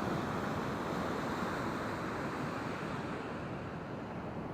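Ocean surf washing on the beach, a steady hiss that slowly dies down toward the end.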